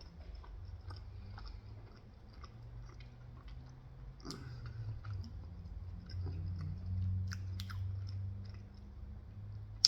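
A person chewing pizza with the mouth close to the microphone: scattered small wet clicks of chewing, a few louder ones, over a low steady hum.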